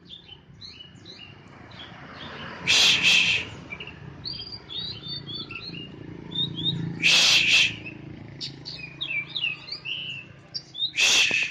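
Oriental magpie-robin (kacer poci) singing: quick high chirps and twittering phrases, broken three times, about every four seconds, by a loud harsh rasping call.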